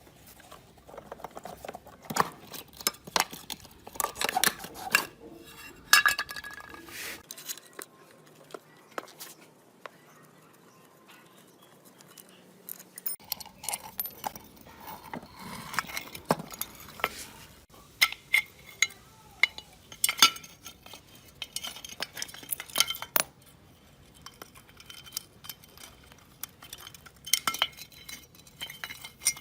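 Metal parts and hand tools clinking and knocking irregularly as they are handled, with a quieter stretch of several seconds in the middle.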